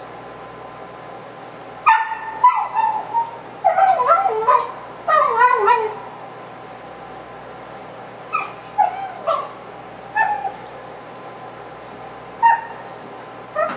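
American Indian Dog puppy yipping and whining in frustrated complaint, the calls bending up and down in pitch. A quick run of calls comes about two seconds in, then a few shorter bouts with pauses between. The sign of a crabby puppy frustrated that his bully stick is too tough to chew fast.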